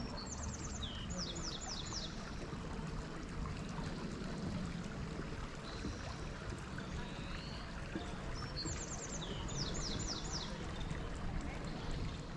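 A songbird sings the same short song twice, about eight seconds apart, each a quick run of high falling notes, over the steady rush of a creek.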